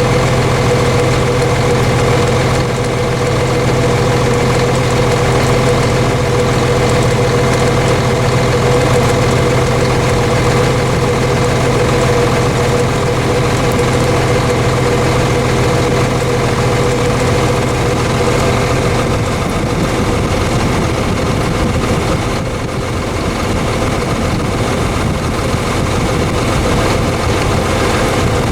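Heavy farm vehicle engine running steadily with a constant hum; a deep low tone in it drops away about two-thirds of the way through.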